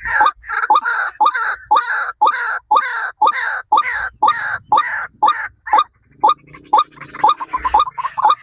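A bird calling over and over in harsh, falling notes, a little over two a second, which thin out and turn into quicker, shorter notes near the end.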